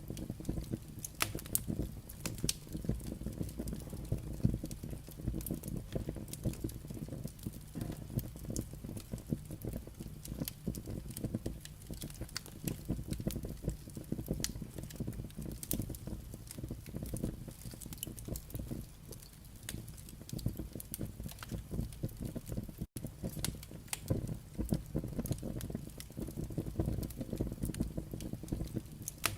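Firewood burning: sharp, irregular crackles and pops over a steady low rumble of the fire. A split-second gap breaks the sound about three-quarters of the way through.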